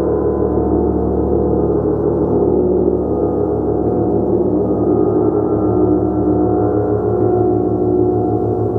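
Gong played continuously: a loud, steady, dense wash of many overlapping overtones with a slow pulsing shimmer in the low tones, the strokes blending together rather than standing out.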